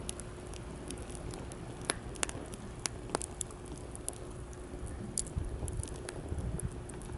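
Wood fire burning in a fire stand, crackling with scattered small pops and a few sharper ones in the first half, over a low steady rumble.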